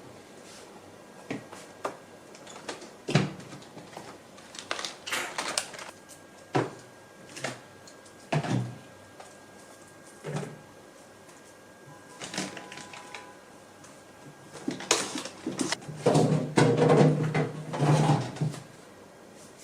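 Packaged snacks and groceries being handled and set down: scattered knocks, clicks and rustles, busiest for a couple of seconds near the end.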